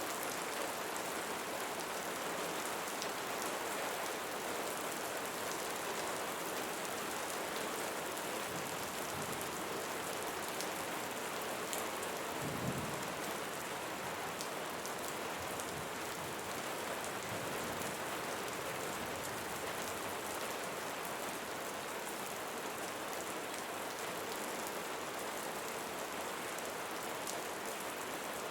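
Steady rain falling, with individual drops ticking close by, and a brief low thump about halfway through.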